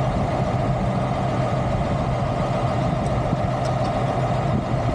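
Heavy diesel truck engine idling steadily, a low hum with a higher drone over it. A couple of faint light clicks about three and a half seconds in.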